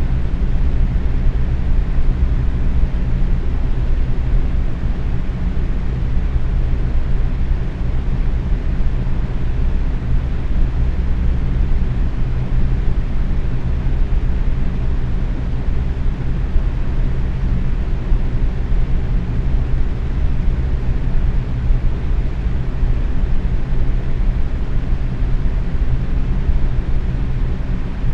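Box fan running steadily at medium speed: an even whoosh of moving air with a low motor hum.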